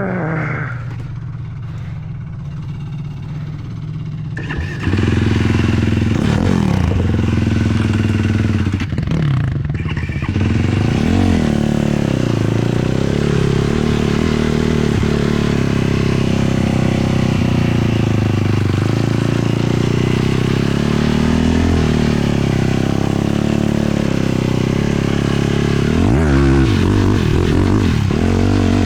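Sport quad's single-cylinder four-stroke engine running under throttle, its pitch rising and falling again and again as it is revved. It runs lower and quieter at first, then opens up about five seconds in.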